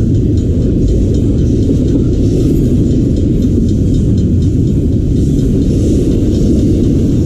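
Intermodal freight train passing a level crossing at close range: a loud, steady rumble of wheels on the rails, with faint rapid clicking above it.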